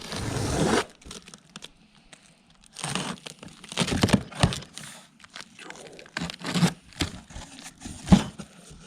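Cardboard box being torn open by hand: a tearing burst in the first second, then irregular rustling, crinkling and knocks as the contents are handled.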